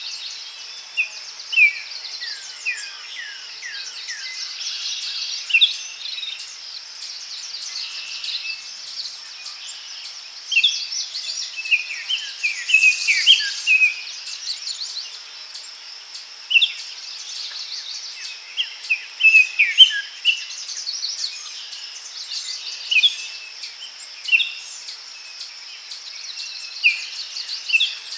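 Daytime forest ambience: several birds calling in short, mostly falling chirps over a steady high-pitched insect drone, with a regular high ticking of about two per second.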